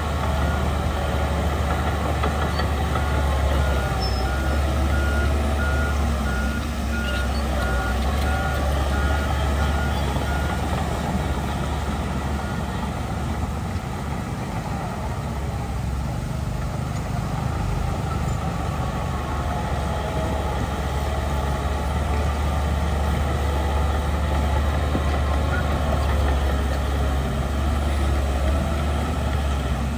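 Heavy diesel engine of earthmoving machinery running steadily. A reversing alarm beeps at an even pace from about three seconds in until about eleven seconds in.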